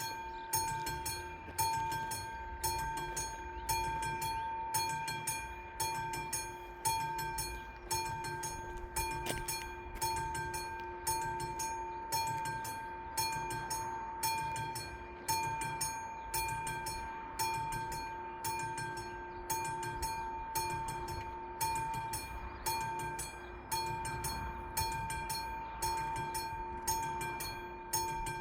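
Classic electromechanical level-crossing warning bells striking in a steady rhythm, about one stroke a second, each stroke ringing on before the next. The crossing is sounding its warning for an approaching train.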